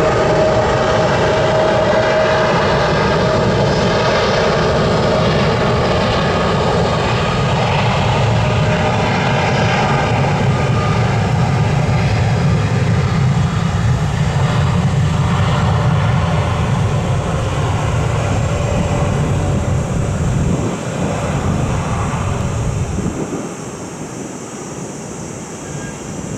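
Airplane engines running loud and steady, with a whine of several tones in the first few seconds; the sound falls off somewhat near the end.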